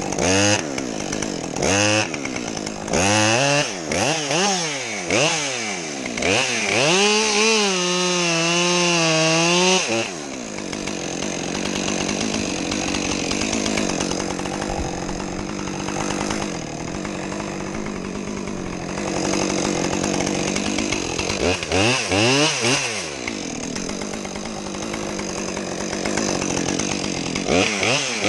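Two-stroke chainsaw revved in short throttle blips, its pitch rising and falling, held at high revs for a few seconds, then dropping back to a lower, steadier run. Further quick blips come about three quarters of the way through and again at the very end.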